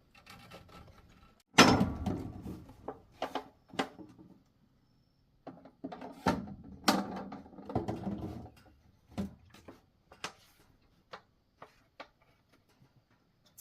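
Irregular knocks and clatter of objects being handled, the loudest a sharp thump about a second and a half in, then a busier run of knocks a few seconds later and scattered small clicks.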